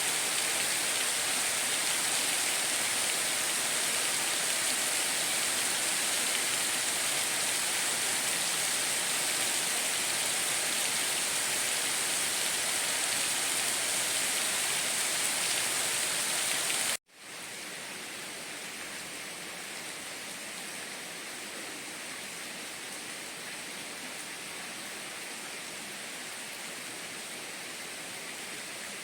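Steady heavy rain, an even hiss. About halfway through it cuts out abruptly for a split second, then comes back softer and less hissy.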